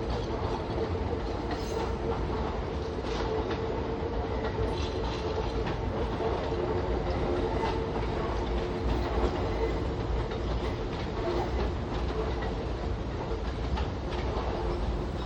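Kintetsu express train running at steady speed, its wheels clicking over rail joints over a continuous rumble, with a faint steady whine from the running gear.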